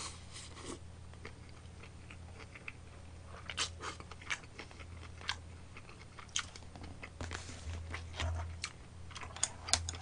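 A person chewing a mouthful of lunchbox food close to the microphone: irregular wet mouth clicks and smacks, over a steady low electrical hum.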